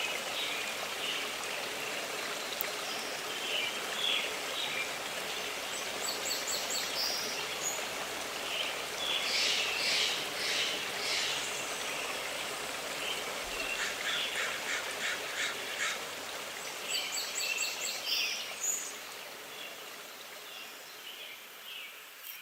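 Several forest birds calling and singing over a steady rush of running water: quick chirp series, dense trills and a run of rapid repeated notes. The whole sound fades out near the end.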